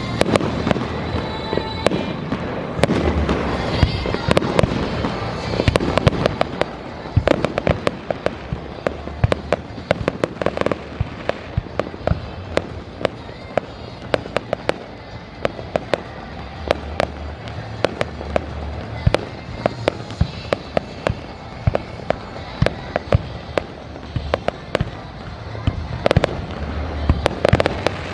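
Fireworks going off: a dense run of sharp crackles and bangs, with deeper booms every few seconds.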